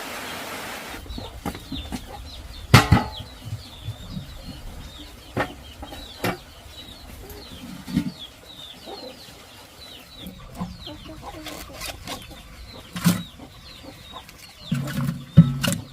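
Small birds chirping many times in short, high, slightly falling notes, with scattered sharp knocks and thumps. The loudest knock comes about three seconds in, and a cluster of low thumps comes near the end.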